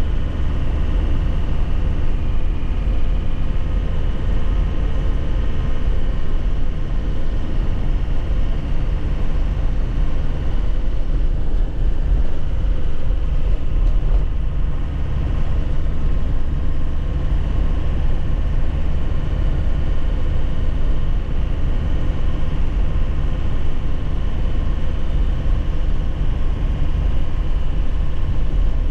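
2001 Nissan Cabstar 106Le light truck on the move: engine and road noise in a steady low rumble, with no clear gear change or rev swing.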